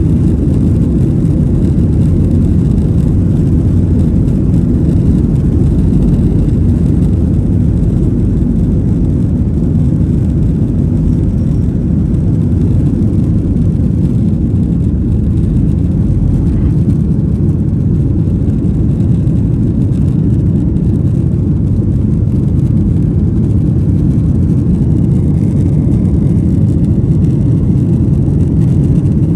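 Jet airliner cabin noise: a steady, loud low rumble of engines and airflow heard from inside the passenger cabin.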